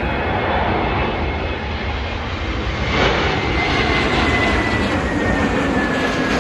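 Jet airliner on approach to land, its engines running with a steady noise that grows a little louder about halfway through, and a high whine that slowly falls in pitch as it passes.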